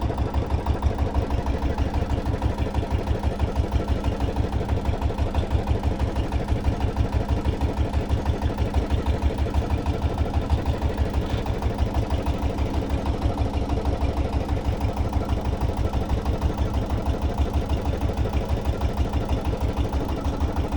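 Small boat engine running steadily with a rapid, even low thumping beat.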